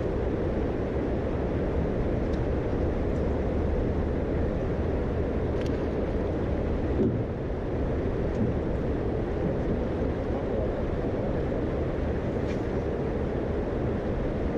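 Jet boat under way, its engine and water jet making a steady, even rush of noise.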